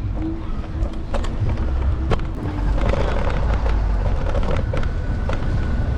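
Apollo Explore electric scooter riding over city pavement, heard from a handlebar-mounted camera: a steady low rumble of road and wind with sharp clicks and rattles over bumps. A steady hum stops about three seconds in, and a fainter higher tone sets in soon after.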